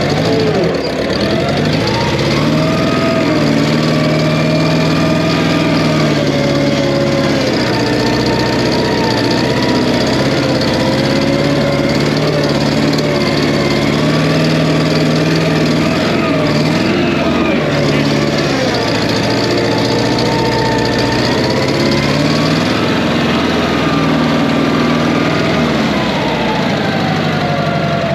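The skid steer's Wisconsin 30 hp air-cooled engine running steadily with a slight low miss. Its speed sags and picks back up several times as it takes load.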